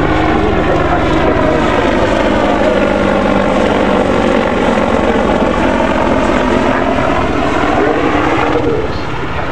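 Apache AH1 attack helicopter flying close by at low level, with loud, steady rotor and turbine noise that eases off slightly near the end.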